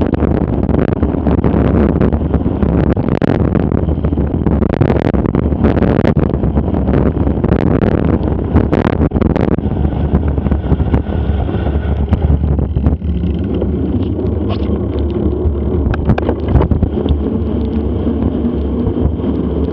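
Wind buffeting an action camera's microphone on a moving mountain bike, a steady low rumble, with frequent rattles and knocks from the bike over rough ground, busiest in the first half.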